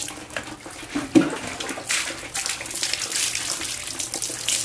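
Water running and splashing as a dog is rinsed during its bath, coming in uneven gushes. A brief squeak about a second in.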